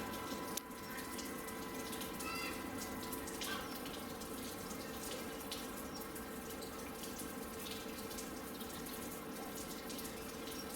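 Steady rush of running water, with a few faint short chirps.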